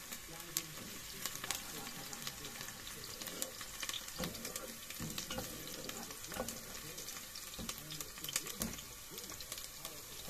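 Beef sizzling in its juices in an open pressure-cooker pot, while a wooden spoon stirs in an aluminium pot beside it, giving irregular clicks and scrapes against the metal.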